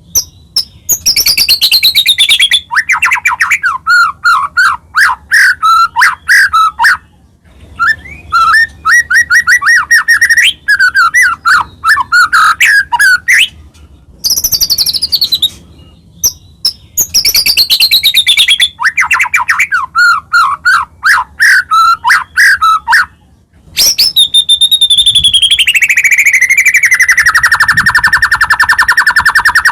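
White-rumped shama (murai batu) in full song, loud and nearly continuous. It sings varied phrases of whistles sweeping down in pitch and rapid trills, with short pauses between them, and ends on one long trill that slides steadily lower.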